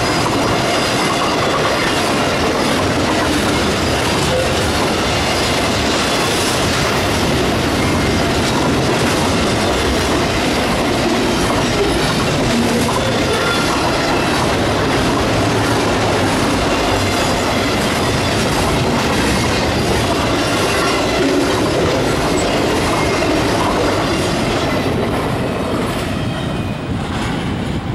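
Double-stack intermodal freight train's well cars rolling past at a level crossing: a loud, steady rumble and rhythmic clatter of steel wheels on the rails. It falls away near the end as the last car clears.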